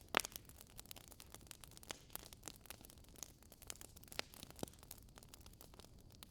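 Campfire crackling: a steady stream of small sharp snaps and pops over a low hiss, with a louder pop just after the start and another about four and a half seconds in.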